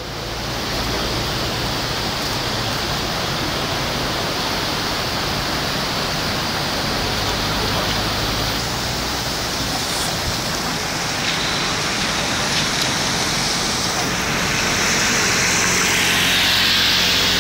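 Muddy floodwater rushing in a steady torrent, a continuous hiss that grows louder about fifteen seconds in.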